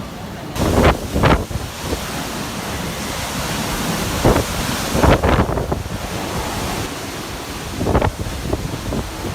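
Typhoon wind rushing steadily, with strong gusts buffeting the microphone in sudden blasts about five times.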